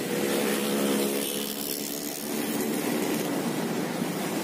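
Passenger train with stainless-steel coaches crossing a steel truss bridge: a steady rumble with a layered hum.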